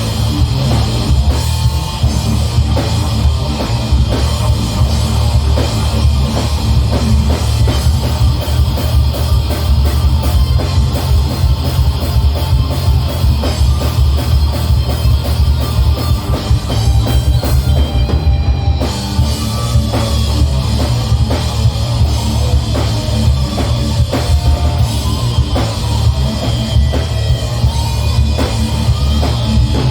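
Heavy metal band playing live: distorted guitars and bass over fast, driving drum-kit beats.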